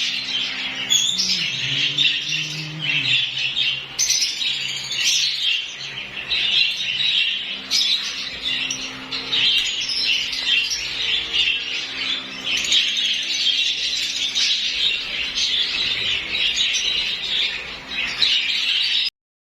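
Many lovebirds chattering and squawking together in a steady, dense din, with occasional wing flaps. The sound cuts off suddenly just before the end.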